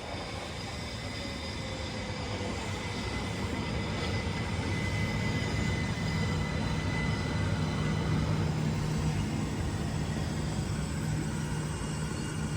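A train approaching, its rumble growing louder over the first half and then holding, with a steady low hum coming up underneath.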